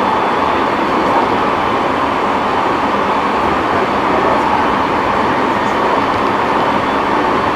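E217 series electric commuter train running at speed, heard from inside the car as a steady running noise that holds level throughout.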